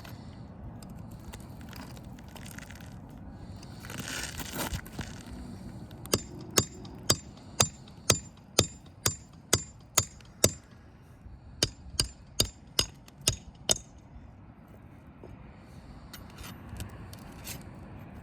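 Hammer strikes in a steady run of sharp, ringing taps about two a second, nine or so, then a short pause and five more, while ridge cap shingles are being worked loose to get at their nails. A brief scraping sound comes before the taps.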